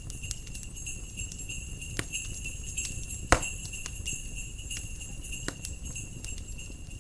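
Jingle bells shaking steadily over a crackling wood fire, the jingling fading out near the end. A loud sharp pop from the fire a little past three seconds in.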